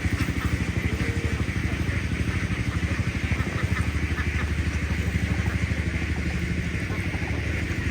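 Engine running steadily at a low speed, with an even, rapid throb.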